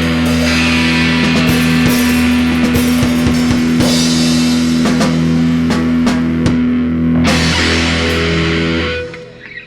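A rock band with guitar and drums plays the instrumental ending of a song, holding a sustained chord under cymbal and drum hits. It stops abruptly about nine seconds in.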